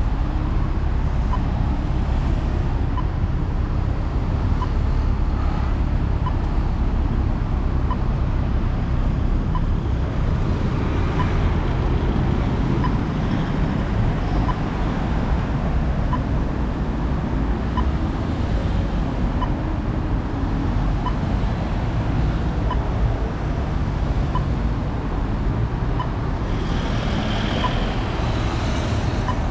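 Steady wind and road rumble from riding along, heavy in the low end, with a faint click repeating about every second and a half.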